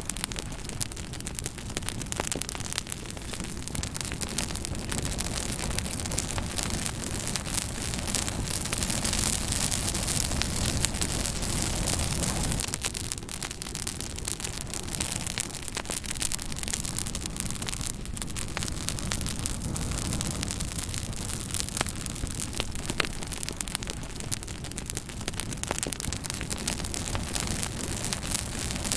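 Fire crackling steadily: a constant hiss and low rumble of flames with many small sharp pops and snaps scattered throughout.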